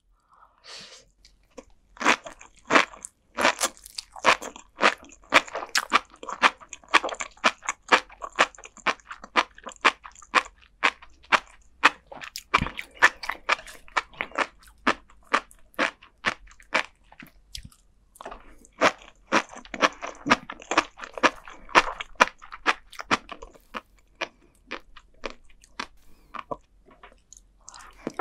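Close-miked chewing of a crunchy rice-cracker spoon, with many sharp, crisp crackles in two long runs and a short pause about two-thirds of the way through.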